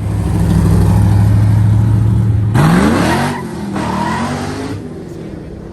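A loud car engine held at steady high revs, then revving up sharply about two and a half seconds in before dropping back and fading.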